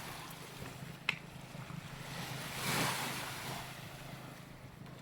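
Small waves washing onto a sandy beach, one wash swelling and fading in the middle, with wind on the microphone. A short sharp click about a second in.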